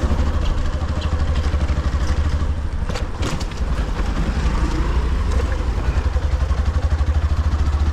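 Motorcycle running at riding speed, its engine mixed with heavy, pulsing wind rumble on the camera microphone. There are a few brief rattles about three seconds in.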